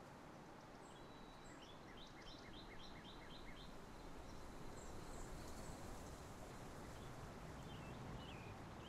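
Birds chirping over a steady faint background noise: a quick run of about seven short chirps a couple of seconds in, then a few scattered chirps near the end.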